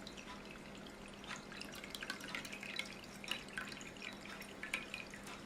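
Water dripping and trickling in a homemade tiered tabletop fountain: faint, irregular small drips over a faint steady hum.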